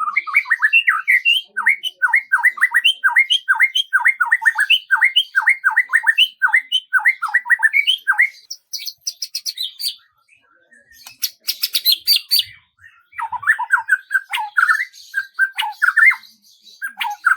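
A songbird singing: a long run of quick, repeated down-slurred chirps, about three a second, then a few higher notes and a short dry rattling chatter, followed by more chirps.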